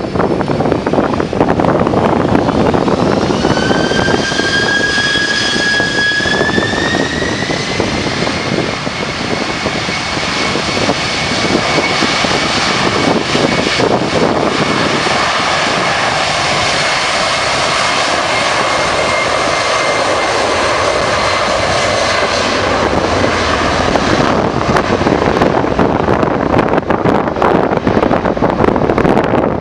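Boeing 767 jet engines spooling up to takeoff power: a whine rises in pitch about three to seven seconds in, then holds steady over a loud engine roar, and the whine fades near the end. Strong gusty wind buffets the microphone throughout.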